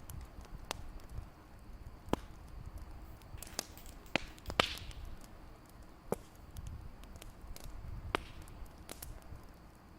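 Wood fire crackling in a fireplace: irregular sharp pops and snaps, about half a dozen standing out, over a low steady rumble of the flames.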